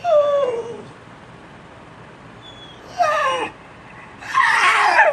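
Pit bull making its "talking" vocalisations: three drawn-out whine-howls, each sliding down in pitch, the last one louder and rougher.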